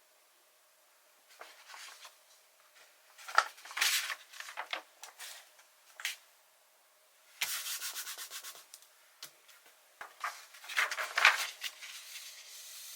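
Paper stickers being peeled off their backing and rubbed down onto a sticker page by hand. It is a dry, crackly paper rustling that comes in several short bursts, beginning about a second in.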